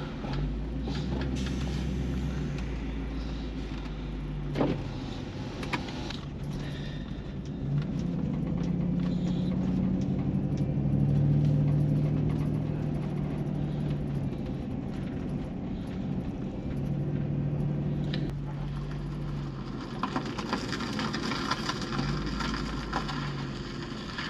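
A motor vehicle's engine running steadily, a low hum whose pitch shifts now and then.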